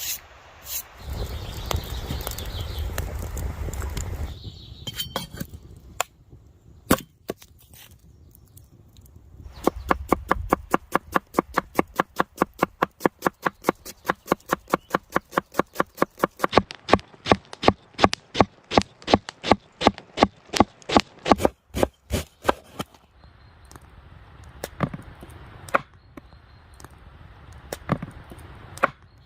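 Rapid, even chopping on wood, about three strokes a second for some thirteen seconds, after a few seconds of rustling and scattered knocks.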